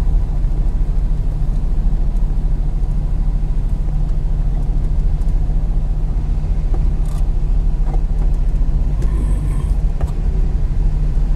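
Steady low rumble of a vehicle engine idling close by in stalled road traffic, with a few faint clicks now and then.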